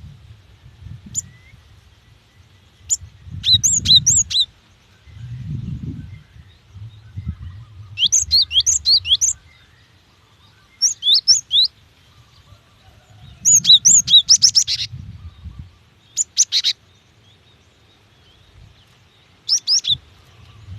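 Female cinereous tit (gelatik batu) calling to males: about six quick bursts of rapid, high chirps, each a second or so long, with pauses between.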